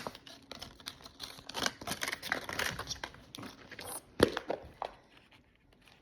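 Plastic wrapping crinkling and tearing in irregular strokes as the packs from a Mini Brands capsule ball are handled, with one sharp plastic click about four seconds in. It dies down near the end.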